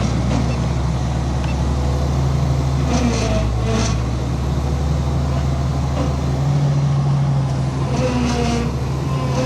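Heavy diesel engine of earthmoving machinery running steadily under a low, constant hum, with two short higher-pitched sounds over it, about three seconds in and again near the end.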